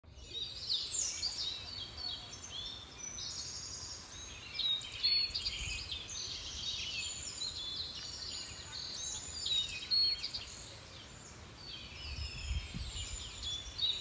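Small birds chirping and singing, a dense, continuous run of quick high notes, many of them falling in pitch, with a faint low rumble underneath.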